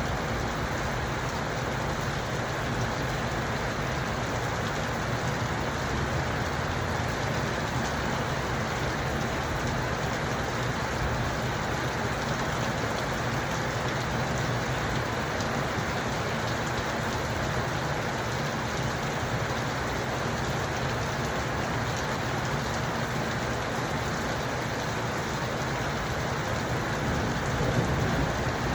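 Steady rain falling: an even, unbroken hiss with a constant low rumble underneath.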